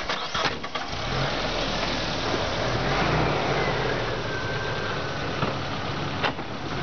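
Suzuki Sidekick's engine running steadily at low revs while the truck slowly tows a wheeled steel sculpture on a rope. A few short knocks come in the first second, before the engine hum settles in.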